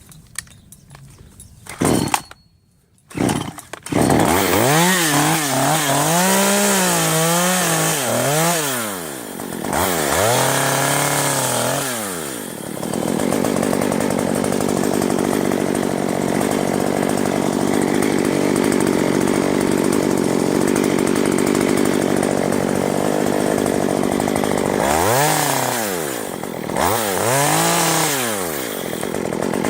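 Two-stroke chainsaw: after two short bursts the engine catches about four seconds in and is revved up and down in blips, then held at full throttle, cutting into wood. Near the end the throttle is eased off and opened again twice before it runs steady once more.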